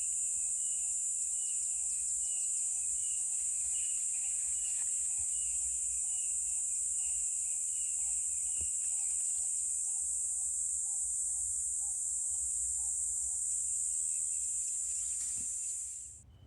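Continuous high-pitched insect drone with a short lower animal call repeated about one and a half times a second; the calls stop a few seconds before the end, and the whole sound fades out sharply near the end.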